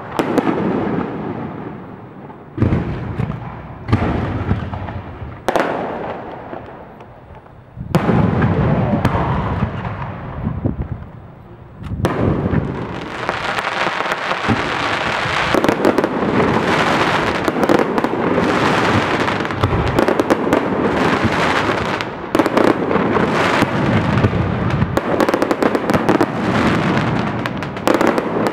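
Fireworks display: sharp bangs of bursting fireworks, a few seconds apart at first, each with a fading tail. From about twelve seconds in they become a dense, continuous barrage of bangs and crackle.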